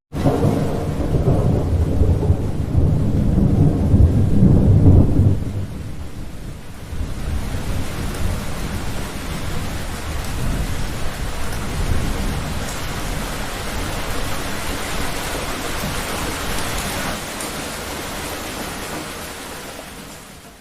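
Thunder rumbling loudly for about the first five seconds, then heavy rain hissing steadily in a thunderstorm. The sound starts abruptly and fades away just before it ends.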